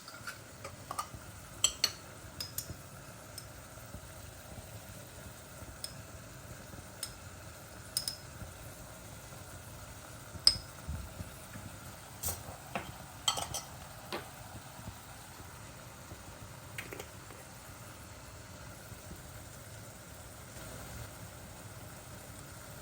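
A cooking utensil stirring in a pan, with scattered sharp clinks and knocks against the cookware, over a faint, steady sizzle of food cooking.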